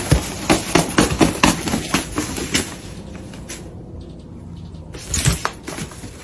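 A rapid clatter of knocks and taps, dense through the first three seconds, easing off, then coming back about five seconds in.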